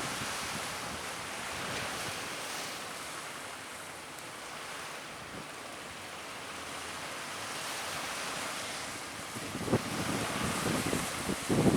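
Steady rush of sea surf and strong wind, with gusts buffeting the microphone toward the end.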